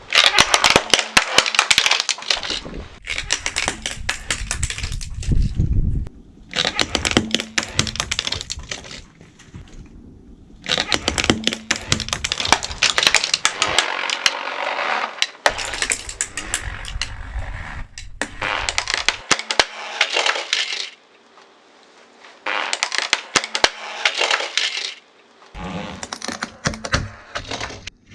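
Crackling and crunching of brittle things being crushed under a car tyre, in a run of bursts a few seconds long with short pauses and abrupt starts and stops between them.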